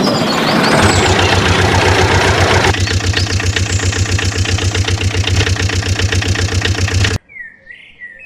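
A small engine runs steadily with a fast, even beat, then cuts off abruptly near the end. A few short chirping calls follow.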